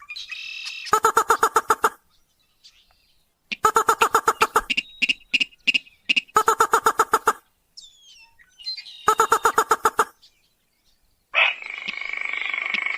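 Recorded lure call of a crake (sintar): bursts of rapid, evenly pulsed notes, each about a second long, repeated every two to three seconds. Near the end a different, continuous harsh call starts.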